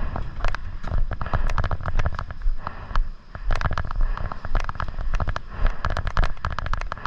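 Airsoft guns firing in sharp, irregular shots, several a second, over a steady low rumble.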